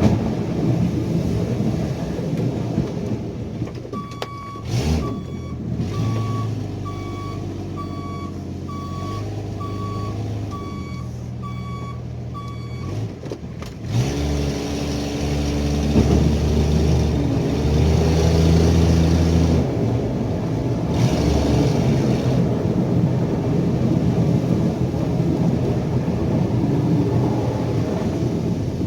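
Vehicle engine running while a backup alarm beeps about once a second for roughly ten beeps as the vehicle reverses. Near the middle the beeping stops and the engine sound turns deeper and louder.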